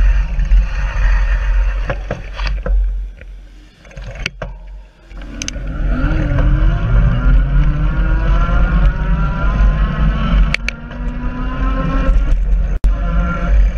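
Wind rumbling on a bicycle-mounted camera's microphone, then a car's engine accelerating away, its pitch rising steadily for several seconds. There are a few sharp clicks in between, and the wind rumble returns near the end.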